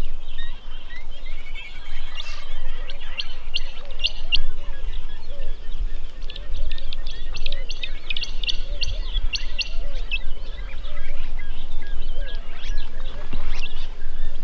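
Birds calling: a busy run of short, high chirps and clicks, thickest in the middle, over softer, lower bending calls.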